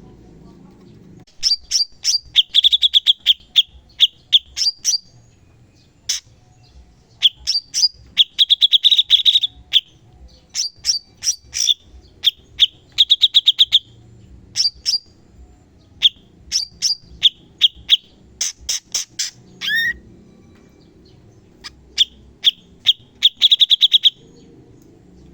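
Cucak cungkok singing a master-recording song of sharp, fast 'tembakan' notes: bursts of rapid high repeated notes and trills in phrases with short pauses, including one falling note about twenty seconds in.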